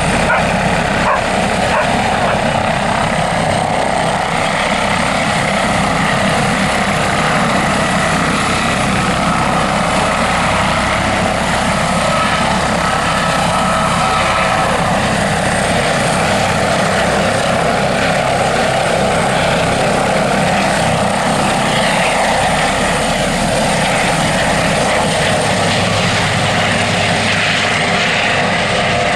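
Radio-controlled scale model helicopter flying: a steady rotor and motor sound with a thin high whine running through it.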